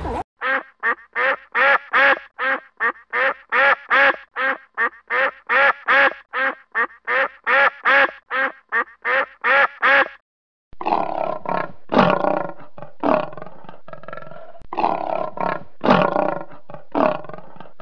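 Egyptian geese honking: a steady run of rapid, evenly spaced honks, about two and a half a second, for some ten seconds. After a short break, a lion roaring in a series of loud, rough calls.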